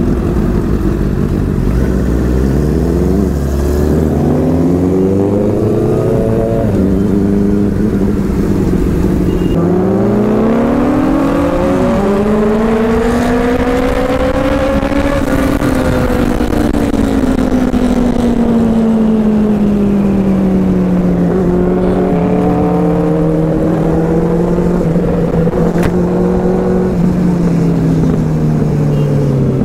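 Inline-four sport motorcycle engine heard from on board while riding, its revs climbing and dropping with gear changes over the first twelve seconds, then easing off and holding steady. Wind blasts over the microphone throughout.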